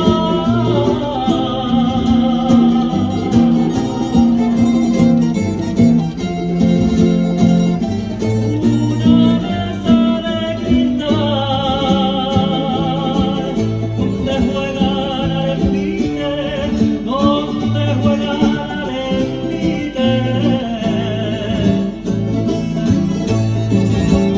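Folk music played on guitars and other plucked strings, with a singer holding long, wavering notes.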